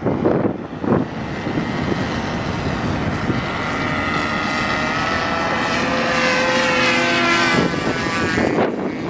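RC model plane's OS .46 glow engine and propeller flying past: the engine note builds to a peak, then drops away suddenly about three-quarters of the way through. Wind buffets the microphone at the start and end.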